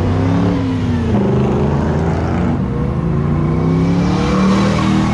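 Car engine revving hard as the car accelerates away: the pitch dips briefly just after a second in, then climbs steadily for about three seconds.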